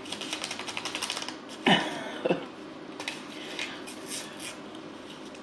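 Rapid light tapping and rattling of a seasoning packet being shaken over pizza, in quick runs of about ten taps a second, a longer run at the start and a fainter one later.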